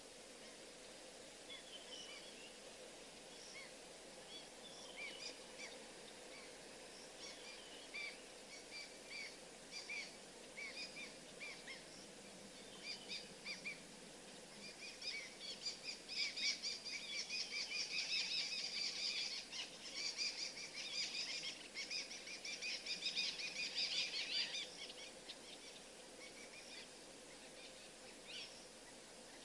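Birds chirping and calling in short notes, swelling about halfway through into a dense chattering chorus for roughly ten seconds, then thinning out again to scattered calls.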